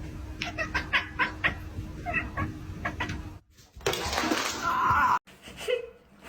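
A cat calling, mixed with a person laughing in quick repeated bursts, across short clips cut together.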